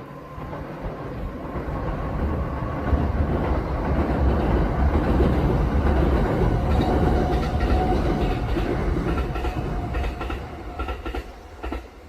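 Kintetsu electric train passing, its wheels clacking over the rail joints; the sound builds to a peak in the middle and fades as the train goes by, with a run of sharp clicks near the end.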